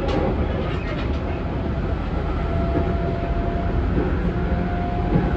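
Running noise inside a JR Central 211 series 5000-subseries electric train carriage: a steady rumble of wheels on rail, with a few sharp clicks in the first second. A faint steady whine joins the rumble about halfway through.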